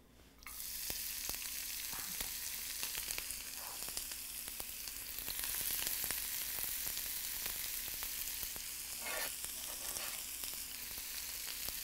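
Chopped scallions sizzling in a little hot oil in a pan, the first step of making scallion oil. The sizzle starts about half a second in and keeps up steadily, with light clicks from stirring.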